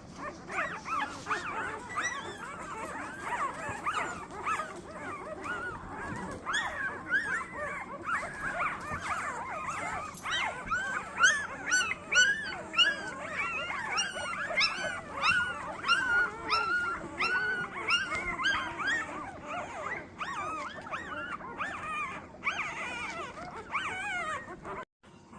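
Golden retriever puppies squeaking and whimpering, many short high cries overlapping from the litter; the sound breaks off abruptly just before the end.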